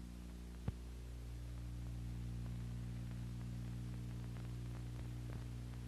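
Steady low hum with faint hiss, with one sharp click about two-thirds of a second in and a few faint ticks later.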